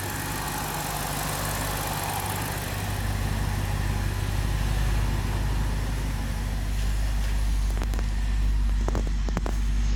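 BMW 645Ci's 4.4-litre V8 idling steadily while warming up from a cold start. A few sharp clicks come near the end.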